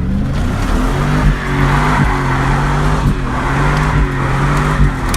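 GMC Sierra 1500's 5.7 Vortec V8 through glasspack mufflers, revved hard: the note climbs right at the start, then holds high with a few brief dips.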